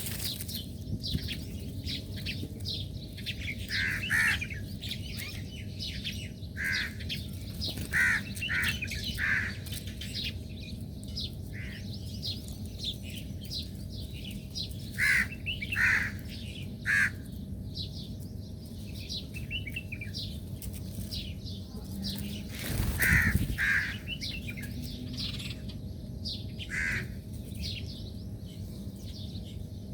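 Birds calling outdoors: a background of many quick chirps, with louder short harsh calls, some in quick pairs, scattered throughout. About three quarters of the way in there is a brief loud rushing noise.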